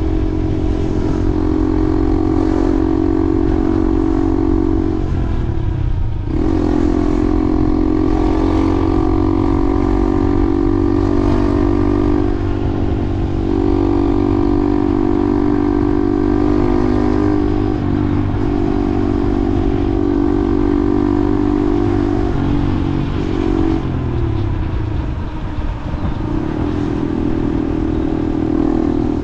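A vehicle motor running at a steady pitch in stretches of several seconds, each broken by a short change before it carries on, over a constant low rumble of wind and road noise.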